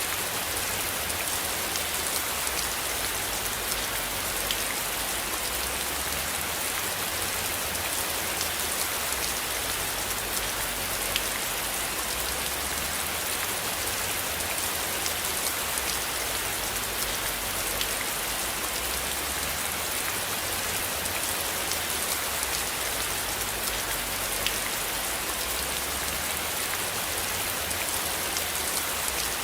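Steady rain falling, with many separate drops ticking on a surface, and a low rumble underneath.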